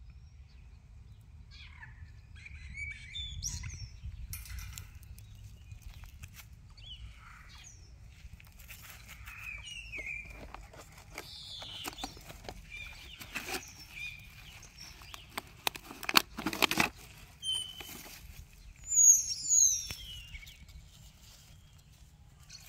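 Small birds chirping and calling in short phrases, with a pair of loud falling calls near the end. A couple of brief knocks or rustles come about two-thirds of the way through.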